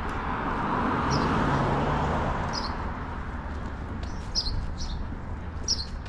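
Small birds chirping, short high chirps every second or so, over a steady background rumble. A broad rushing noise swells about a second in, then fades.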